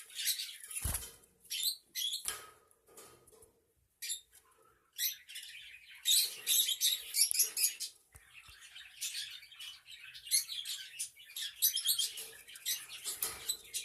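Budgerigars chirping and chattering in quick high-pitched bursts, separated by short pauses, with a dull thump about a second in.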